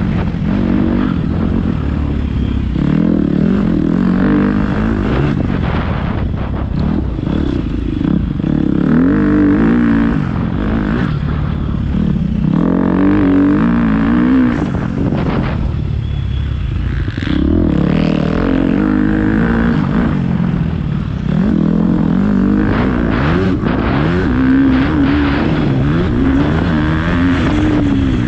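Motocross bike engine revving up and dropping back again and again, its pitch rising and falling every few seconds.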